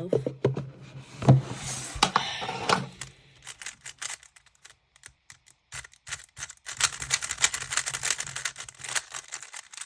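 Rapid plastic clicking and rattling of a GAN maglev speedcube's layers being turned fast, after a few louder knocks in the first couple of seconds. The clicking grows denser in the last few seconds, and the cube is described as very rackety.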